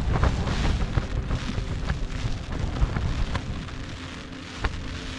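Ultralight tent's fabric buffeted by strong wind: a steady noisy rush with a low rumble and many small taps and rattles, easing off slightly towards the end.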